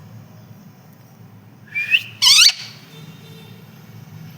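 Pet parrot giving two short shrill calls in quick succession about two seconds in, the second louder and sweeping sharply up in pitch.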